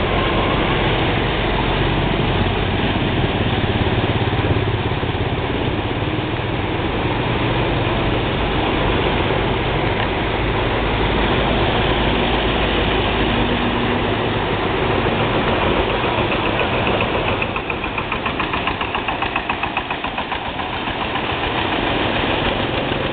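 A motor engine running steady under a loud, noisy background. About seventeen seconds in, a fast pulsing sound comes in for a few seconds.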